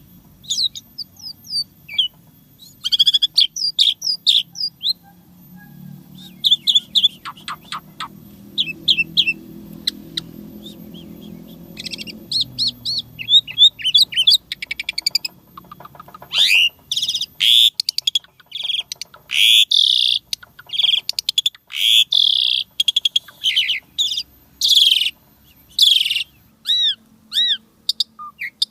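Asian pied starling (jalak suren) in full song: a long, varied run of loud whistles, chirps and quick repeated notes, with fill phrases woven in. The song grows busier in its second half and ends with a few arched whistles.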